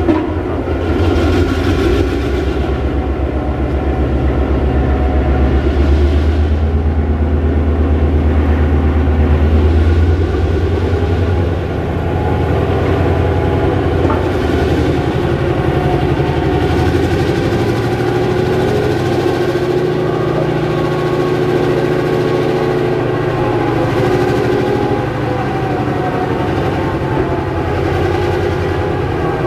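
GM-EMD two-stroke diesel engine of a DSB class MY locomotive running under power, held at one steady note and then shifting to another about ten seconds in.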